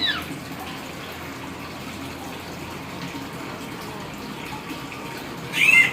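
Hill myna giving a loud, short whistled call with a rising then falling glide near the end, over a steady rushing, water-like hiss.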